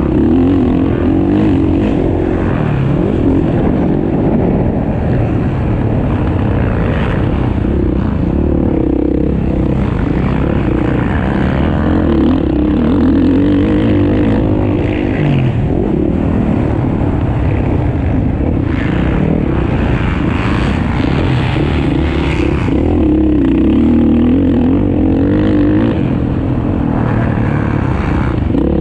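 Off-road motocross bikes racing, engines revving up and down continuously as they accelerate and shift around the track.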